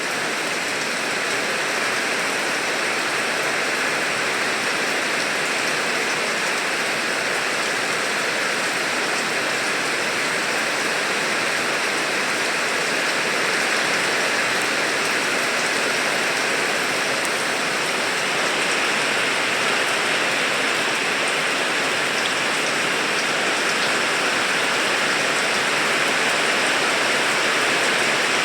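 Steady rain falling, an even hiss of many drops without pause or change.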